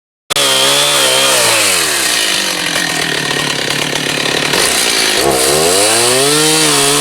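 Gas chainsaw running at high revs, its pitch sagging under load as it cuts through a limb for a few seconds, then climbing back up. It cuts in abruptly just after the start.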